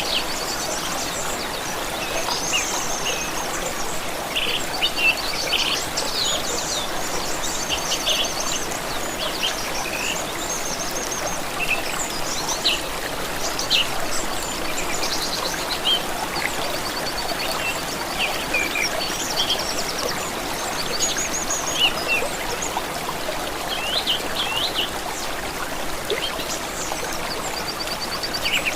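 Flowing stream water running steadily, with several songbirds chirping and trilling over it.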